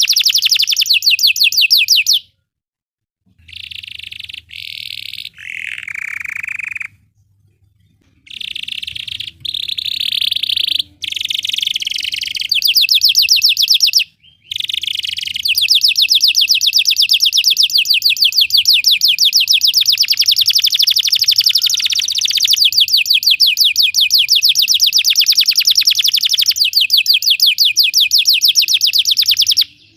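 Belgian canary singing in rapid rolling trills, broken by short pauses a couple of seconds in and again around seven seconds. From about halfway it settles into one long unbroken trill that stops just before the end.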